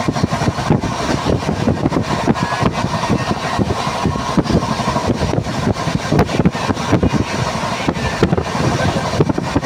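Passenger train running at speed, heard from inside the coach at an open barred window: a loud, steady rumble of the running gear with constant quick, irregular knocking and rattling.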